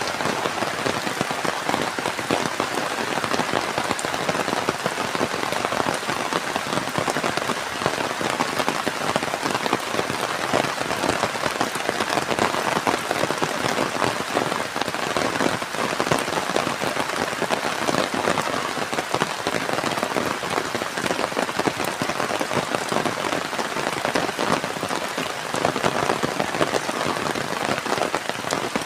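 Steady heavy rain falling and pattering on a surface, a dense even hiss made of countless small drop impacts.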